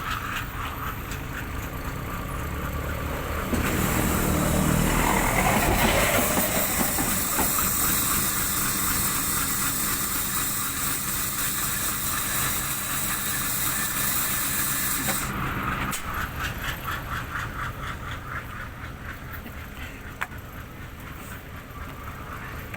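A truck engine running steadily. A few seconds in, a loud hiss starts and runs for about twelve seconds, then cuts off suddenly.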